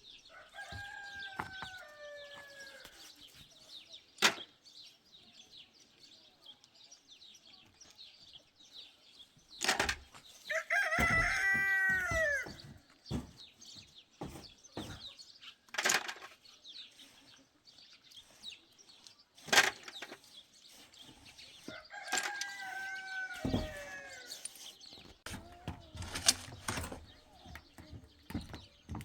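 Rooster crowing three times, loudest in the middle, with scattered sharp knocks in between.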